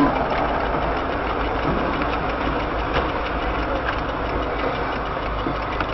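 A car's engine and road noise running steadily, heard from inside the car.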